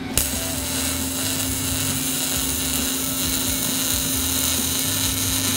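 MIG welding arc on a steel auger shaft: the arc strikes about a quarter-second in and then sizzles steadily as the first pass of a multipass weld is laid down.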